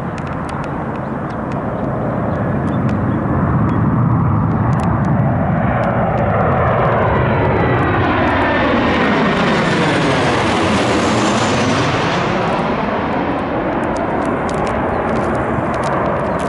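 Boeing 737-900 jet airliner flying close past with its CFM56 turbofans running. The rumble swells over the first few seconds and holds. A whooshing, phasing sweep in pitch dips down and climbs back up as the plane goes by.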